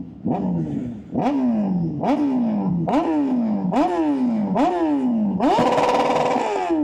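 Inline-four superbike engine revving hard, its pitch jumping up and sliding down again about once a second, six times, then holding a steady high note near the end.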